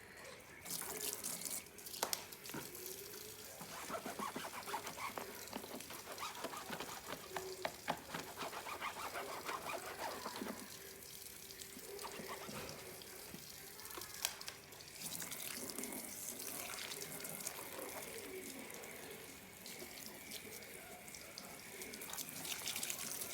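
Water running and splashing over a motorcycle as it is rinsed down, with scattered light knocks and clicks.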